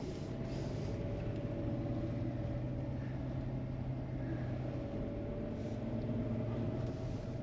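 Four-wheel-drive vehicle driving along at a steady pace: a steady engine and road drone with a constant low hum and a fainter higher tone above it.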